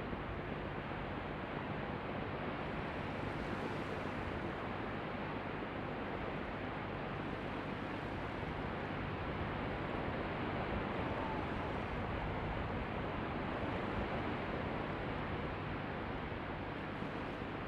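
Steady hiss of re-recorded background noise with a faint low hum, unchanging throughout.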